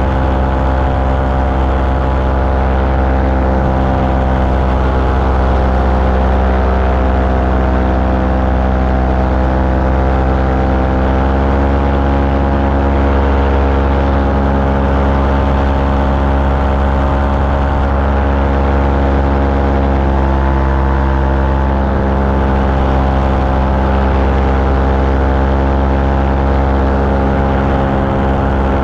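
Small propeller-driven aircraft engine running steadily in flight, its pitch shifting slightly about eleven seconds in.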